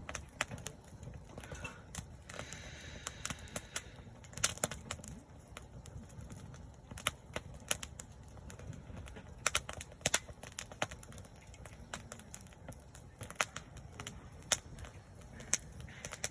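Wood campfire crackling, with sharp irregular pops and snaps over a low steady rumble of the fire.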